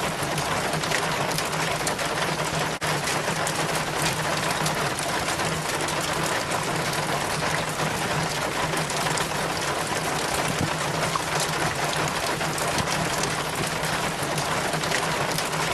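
Rain water pouring and splashing down a rain chain from the gutter, a dense steady patter of drips and trickles, with a steady low hum underneath. It drops out for an instant about three seconds in.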